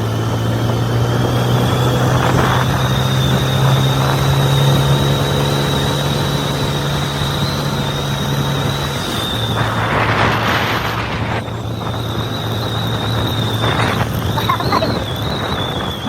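Motorcycle engine running steadily while riding, with a steady low hum and a thin high whine. About nine seconds in the engine note changes and thins, and a gust of noise passes a second later.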